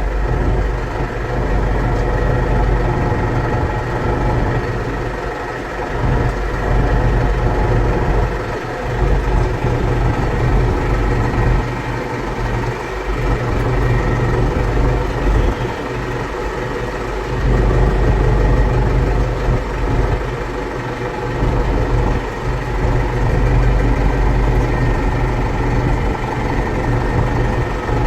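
Tractor engine running steadily under way, its low rumble swelling and dipping every few seconds.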